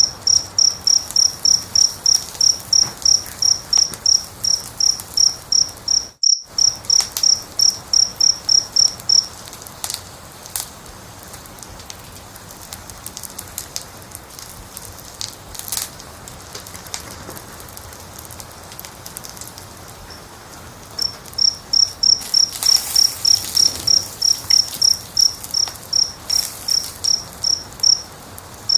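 A cricket chirping in a fast, even pulse, about three chirps a second, over the soft crackle and pops of a wood fire. The chirping stops about nine seconds in, leaving only the crackling, and starts again about seven seconds before the end. All sound drops out for a moment about six seconds in.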